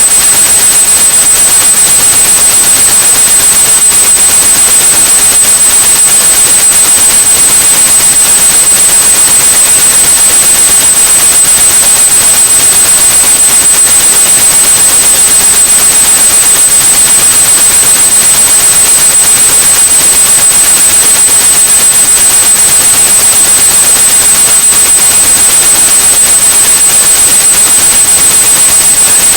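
Steady high-pitched pure tone at 8,100 Hz over loud, even white noise, unchanging throughout: a synthetic tinnitus-masking sound.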